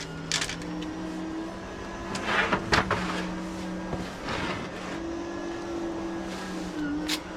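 A steady low machine-like hum, with short scraping or rustling noises and sharp clicks on top of it a few times, the busiest stretch about two to three seconds in.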